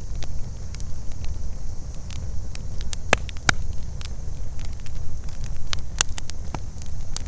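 Campfire burning with irregular sharp crackles and pops, two louder snaps about three seconds in, over a steady low rumble. A faint, steady high insect chorus sits behind it.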